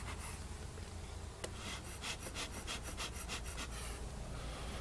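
Bee smoker bellows pumped in quick succession, a run of short breathy puffs of air, about four or five a second, pushing air through the smouldering paper and grass fuel to keep it smoking. One sharp click comes just before the puffs start.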